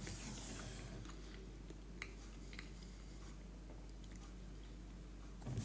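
Faint chewing of a mouthful of soft stuffed sweet potato, with a couple of small mouth clicks about two seconds in.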